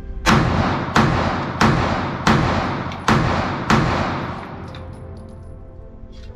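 Six shots from a Sig Sauer P938 9mm pistol, fired at a steady pace about two-thirds of a second apart, each followed by a ringing echo.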